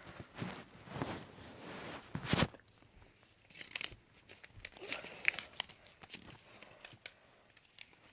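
Footsteps and paper rustling in a small room, with one loud thump about two and a half seconds in and scattered clicks later.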